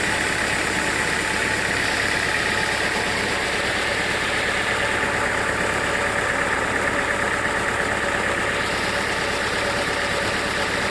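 Sawmill machinery running steadily, an engine-driven saw setup with a constant hum and a steady high whine and no change in load.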